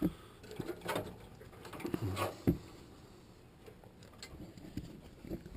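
Light handling noise of a furnace control board being turned over in the hand: a few scattered clicks, taps and rustles, the sharpest about two and a half seconds in.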